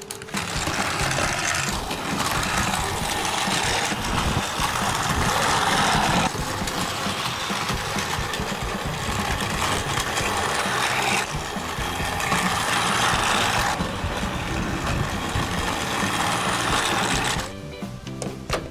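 Plarail battery-powered toy train running along the plastic track, its small motor and gears whirring and the wheels rattling. The noise gets louder and quieter in turns and stops about a second before the end. Background music plays underneath.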